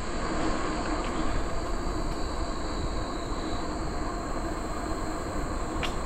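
Steady rolling rumble of a bicycle riding along a trail, with wind on the microphone, under a steady high-pitched drone of insects.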